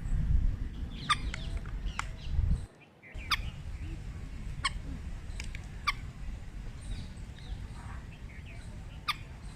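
A bird giving short, sharp, separate calls, about seven in all and each falling in pitch, over a steady low rumble. The sound cuts out briefly about three seconds in.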